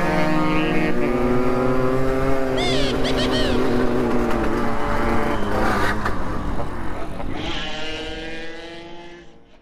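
Motorcycle engine running under way, holding a fairly steady pitch with small rises and falls, fading out near the end.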